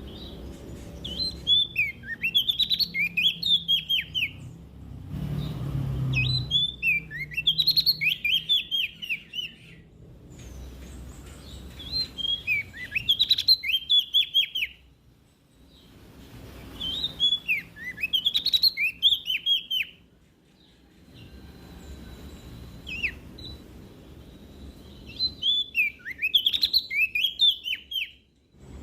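Prenjak daun (cikrak daun), a leaf warbler, singing in five separate phrases, each about three seconds of quick, sharply dropping high notes, with a longer pause before the last phrase.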